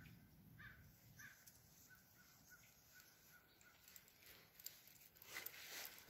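Near silence: faint woodland ambience with a few faint, evenly spaced bird calls, and soft rustling near the end.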